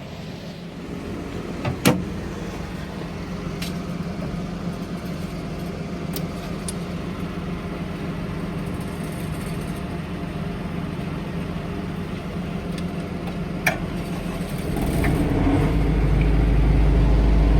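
An engine running steadily with a low hum, with a couple of sharp knocks, growing louder and deeper about fifteen seconds in.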